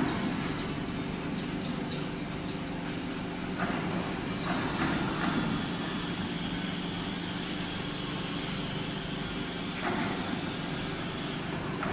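Cardboard baler's hydraulic power unit running with a steady machine hum, broken by a few short noisy bursts.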